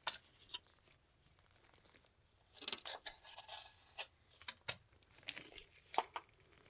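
Hands-on scraping and rubbing at oily grime, with short rustling scrapes and a few sharp clicks and taps at irregular intervals.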